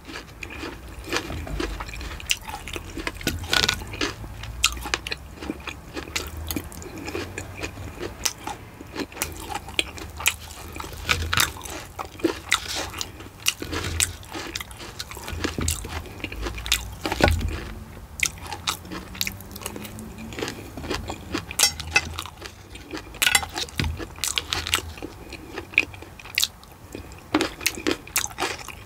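Close-miked eating: chewing and biting forkfuls of a cream-topped fruit tart, with sharp crunches and clicks at an irregular pace.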